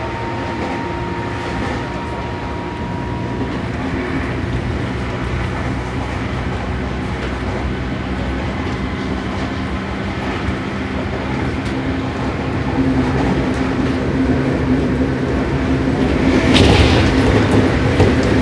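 Interior running sound of a Seibu 6000 series electric train's motor car with a Toshiba IGBT inverter, travelling at speed between stations, with steady motor and gear hum over wheel-on-rail noise. Near the end there is a short burst of louder wheel clatter over the track.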